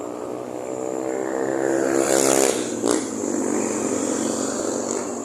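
An engine running, growing louder for about two and a half seconds and then easing off, with one sharp knock about three seconds in.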